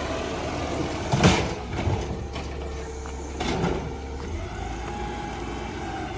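Battle Motors garbage truck with an Amrep body at work: a steady low running hum, several loud clunks and knocks in the first four seconds, and a whine that starts about four seconds in.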